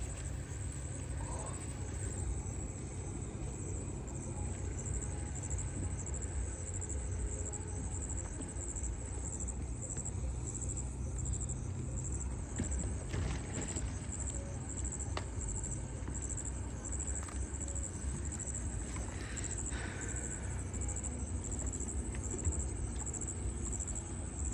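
Insects trilling in a steady, evenly pulsing high note over a low steady rumble, with a few faint clicks.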